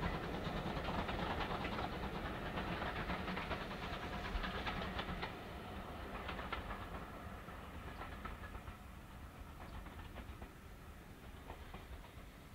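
A steam-hauled heritage train's carriages rolling along the rails, clicking over the rail joints, fading steadily as the train moves away.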